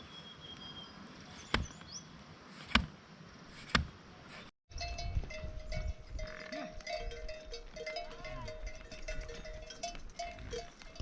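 A few sharp knocks, then, after a brief break about halfway through, livestock bells on a flock of sheep and goats ringing steadily.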